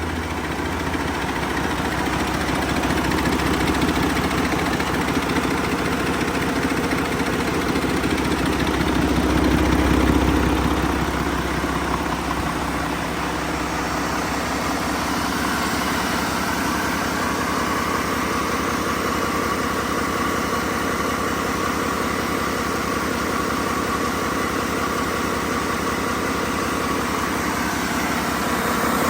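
Mack MP8 12.8-litre inline-six diesel engine running steadily near idle, with a brief swell in level about ten seconds in.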